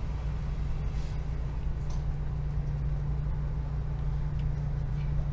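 Vehicle engine idling, heard from inside the cab: a steady low hum.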